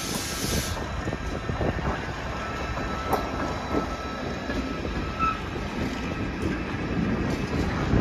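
Freight train rolling past, a steady rumble of wheels with irregular clatter over the rail joints and a faint wheel squeal.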